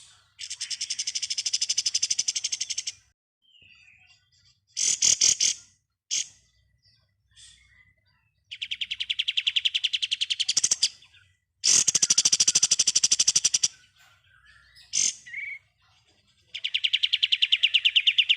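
Kapas tembak, a bulbul, singing in rapid machine-gun bursts (ngebren): four long, fast, rattling trills of about two seconds each, with short calls and brief bursts between them.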